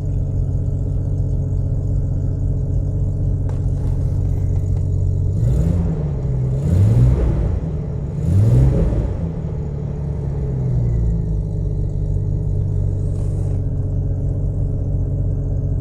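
1991 Jeep Cherokee's 4.0L inline-six idling steadily, revved up twice in quick succession about halfway through and settling back to idle. It is running just after an oil change, with its oil pressure up.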